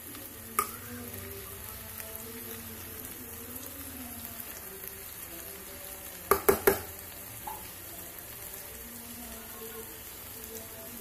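Chicken curry sizzling and frying in a nonstick pan while a metal spoon stirs it. There is one click early and a quick run of three sharp spoon knocks against the pan a little past halfway.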